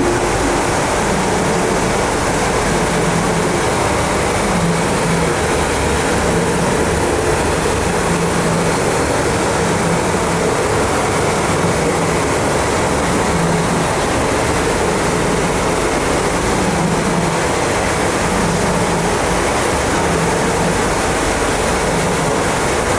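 Industrial ventilation and plant machinery running steadily: a continuous rush of air with a low hum that pulses roughly every second and a half.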